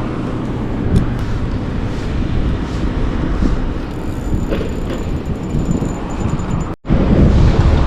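Steady rushing of river water with wind buffeting the microphone. The sound cuts out for an instant about seven seconds in and comes back louder.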